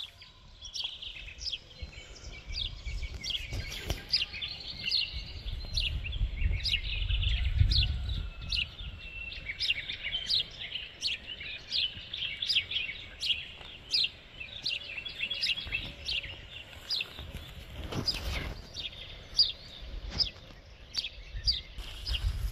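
Songbirds chirping through the whole stretch: a steady run of short, high, falling chirps, about two a second, over an uneven low rumble.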